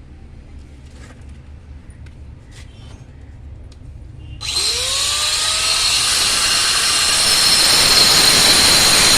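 An electric power tool, such as one used for cutting and grinding stone, switches on about halfway through. Its motor speeds up with a rising whine, then runs loud and steady with a high-pitched whine and a grinding hiss.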